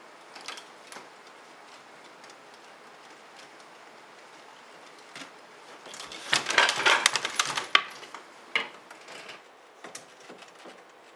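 Rapid clicking and clattering of small hard objects, in a dense burst about six seconds in lasting roughly two seconds, with scattered single clicks around it.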